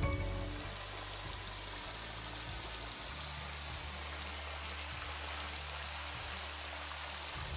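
Steady rushing hiss of water, even and unbroken, with no distinct drops or splashes standing out.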